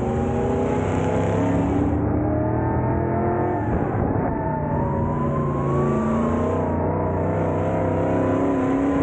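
Dirt-track race car engines running hard, several engine notes overlapping and rising and falling in pitch as the cars rev and pass.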